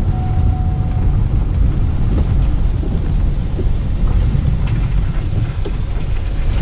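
Steady low rumble of a car driving, road and engine noise heard from inside the cabin, with a few faint ticks.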